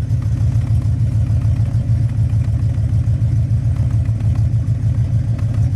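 1967 Cadillac Eldorado's 429 cubic-inch (7-litre) V8 idling through its true dual exhaust: a steady, low, evenly pulsing burble.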